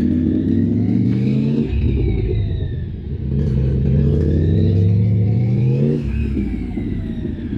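Motorcycle engine running through slow figure-eight turns, its speed rising and falling in two long swells as the throttle is rolled on and off.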